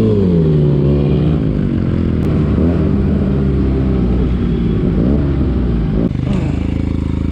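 Motorcycle engine running on the move, its pitch rising and falling with throttle changes. The sound changes abruptly about six seconds in.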